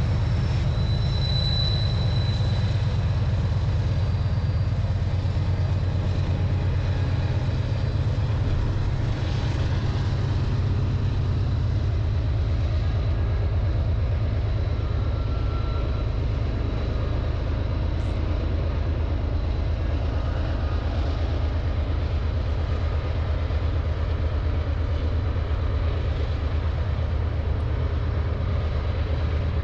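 Diesel freight locomotives running with a steady, deep rumble.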